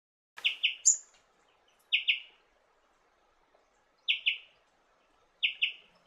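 A small bird calling in short doubled notes: four quick pairs spaced about one and a half to two seconds apart, with a single higher, sharper note just after the first pair.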